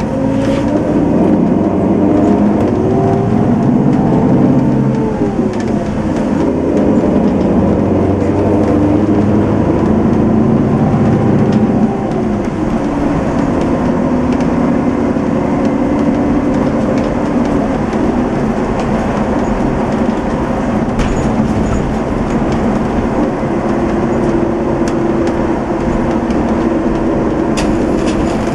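Setra S 431 DT-L double-decker bus running under way, its diesel engine note rising and falling as it pulls through the gears of its manual gearbox, over a steady road rumble. About twelve seconds in the level dips briefly, then the engine runs on at a steadier note.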